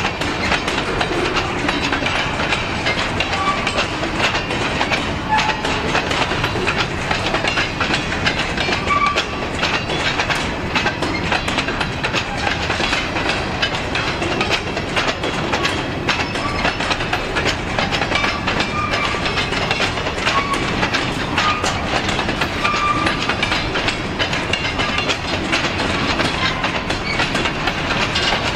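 Freight train of covered hopper cars rolling past at close range: a steady rumble of steel wheels on rail, with a continuous run of clicks and clacks as the wheels cross the rail joints.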